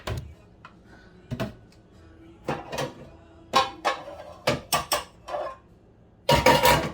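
Pots and pans clanking as a skillet is got out for the stove: a string of separate knocks and clatters, with a longer, louder rattle near the end.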